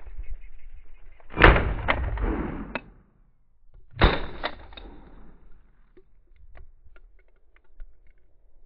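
Two shotgun shots about two and a half seconds apart, each followed by a rolling echo.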